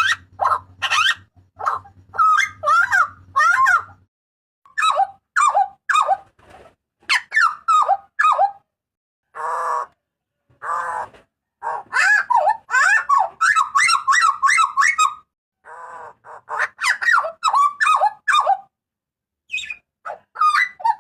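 Hooded butcherbird (jagal papua) giving loud, harsh, rapid calls in bursts with short gaps, the notes bending quickly up and down. A couple of rasping squawks come about halfway through.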